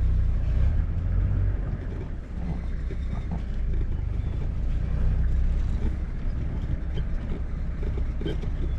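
Safari vehicle's engine running, a steady low rumble.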